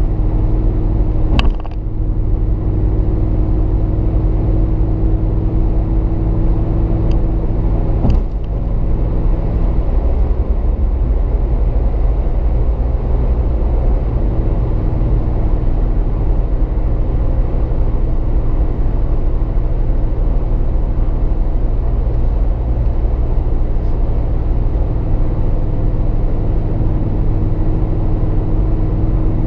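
A 2010 Jeep Grand Cherokee SRT8's 6.1-litre HEMI V8 running steadily through a Borla S-Type cat-back exhaust, giving a deep, even drone. Two short clicks come about one and a half and eight seconds in, and the engine note shifts a little around ten seconds in before settling again.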